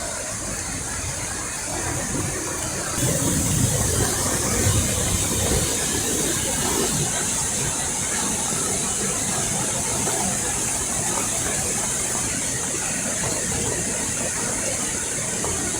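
Fast-flowing floodwater rushing with a steady hiss, over a vehicle engine running. The hiss grows brighter about three seconds in.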